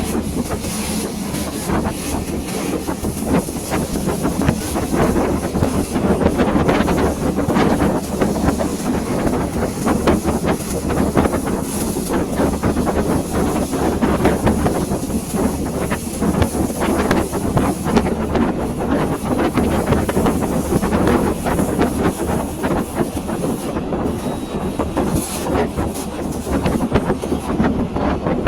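Passenger train running along the track, heard from aboard: a steady rumble and low hum with many irregular clicks and rattles from the wheels and carriage.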